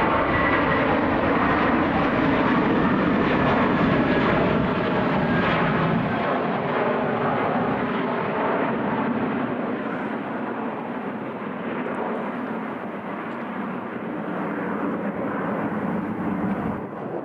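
Airliner engines running loud, a dense noise with a deep rumble. About six seconds in, the rumble drops away and the sound slowly fades.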